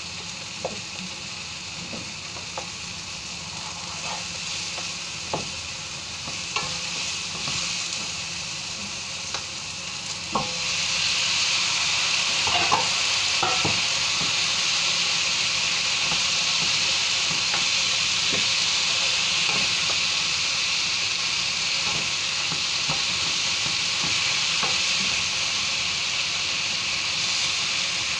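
Onions and tomatoes sizzling in a nonstick frying pan, stirred with a wooden spatula that gives scattered light knocks against the pan. About ten seconds in, raw chicken pieces go into the hot pan and the sizzling turns louder and stays loud while they are stirred.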